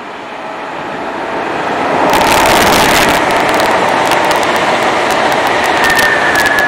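Dark green passenger train passing close at speed: a rushing noise that builds over the first two seconds and stays loud. Sharp clicks run through the middle, and a brief high squeal comes near the end.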